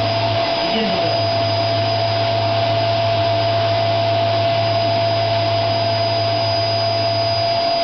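Vacuum cleaner running steadily, a loud rushing motor noise with a constant high whine. Its low hum drops out briefly about half a second in and again near the end.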